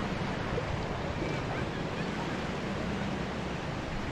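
Sea surf washing steadily onto a beach, with wind on the microphone.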